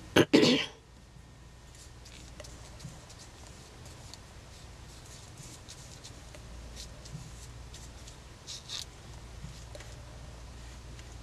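A person with a cold coughing twice in quick succession, the loudest sound. Then only faint scratching and rustling from craft work over a low steady hum, with a short pair of rustles about eight and a half seconds in.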